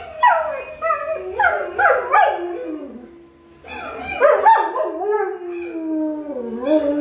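Dog howling: several rising and falling howls, a short break about three seconds in, then one long howl that slides down in pitch.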